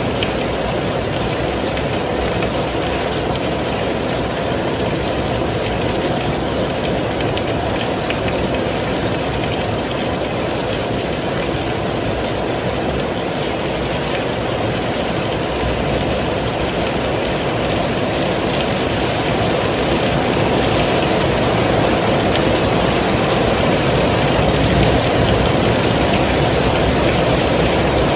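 Heavy rain falling steadily, a dense, even rush with a deep low rumble, growing slightly louder about two-thirds of the way through.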